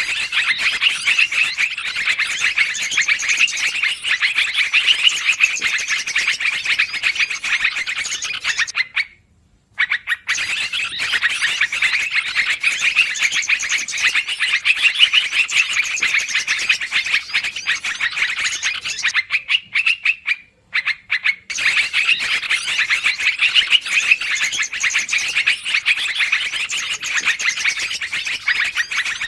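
Yellow-vented bulbuls (trucukan) chattering noisily in a dense, rapid flurry of calls, breaking off briefly twice: a bird-lure recording.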